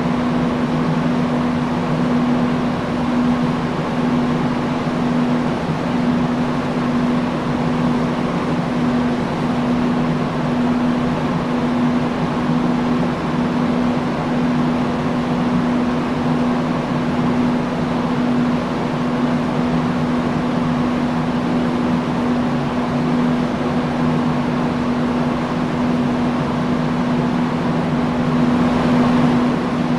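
Industrial fan running steadily: an even rush of moving air with a constant low motor hum.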